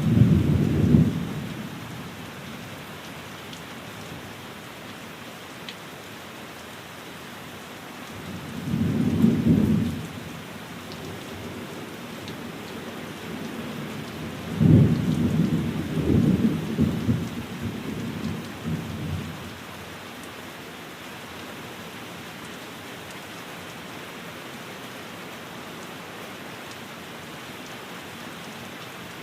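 Steady rain, with thunder rumbling three times: a loud burst right at the start, a shorter rumble about nine seconds in, and a longer rolling rumble from about fifteen to nineteen seconds.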